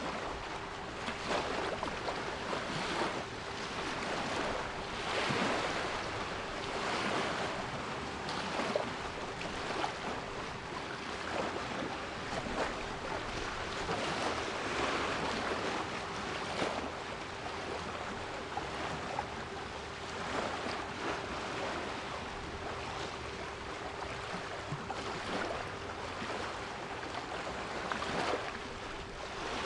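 Sea waves washing in every few seconds over a constant hiss, with a steady 396 Hz pure solfeggio tone held underneath.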